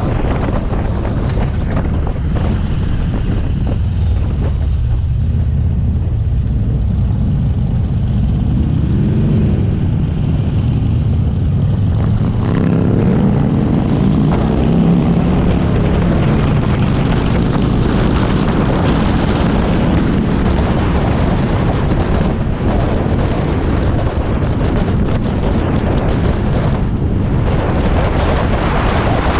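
Harley-Davidson Iron 1200's air-cooled V-twin engine running steadily at road speed. About halfway through the engine note shifts, rising and then settling.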